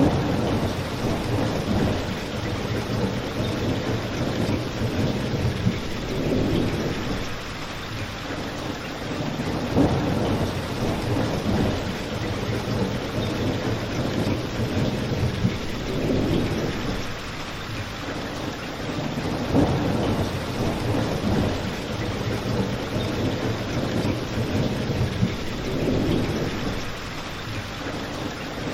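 Steady heavy rain with low rumbling swells every few seconds, and a few sharp pops from a crackling fireplace.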